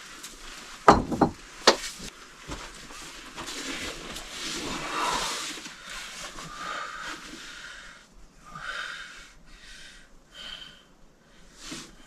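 Two or three sharp knocks about a second in, then scuffing noise and a string of short, breathy puffs of a person's breathing.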